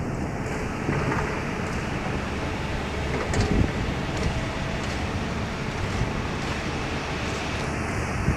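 Passenger train hauled by a ChS7 electric locomotive at a station platform: a steady low rumble and hum with a few short clicks and a brief squeal about three and a half seconds in.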